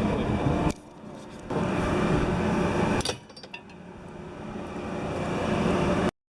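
Loud, steady machinery noise with a hum. It drops away sharply twice and cuts off abruptly near the end.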